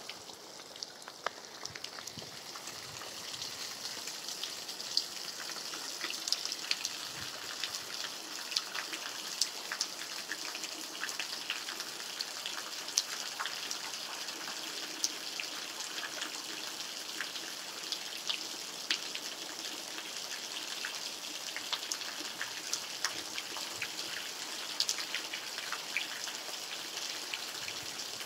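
Steady rain falling: an even hiss with many sharp, separate drop ticks, getting a little heavier after the first couple of seconds.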